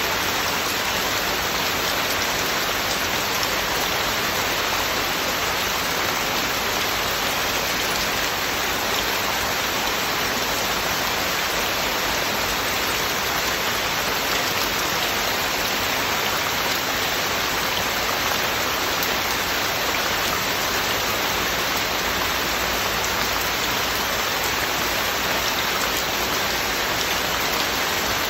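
Heavy, steady rain falling without a break, an even hiss of many drops with no thunder.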